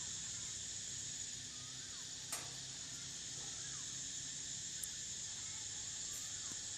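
Morning outdoor ambience: a steady high-pitched insect drone, with faint short sliding bird whistles repeating about every two seconds. There is one sharp click a little after two seconds in.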